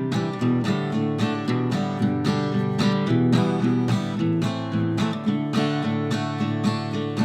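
Background music of a strummed acoustic guitar, chords struck at a steady, even rhythm.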